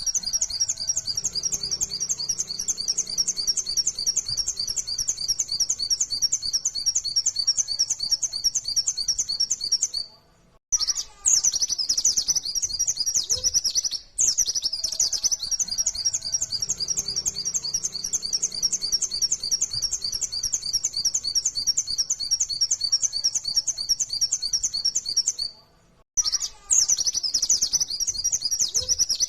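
White-eye (pleci) singing a fast, unbroken run of rapid high notes, the 'full nembak' rattle. Long runs of song are broken by brief pauses about ten, fourteen and twenty-six seconds in.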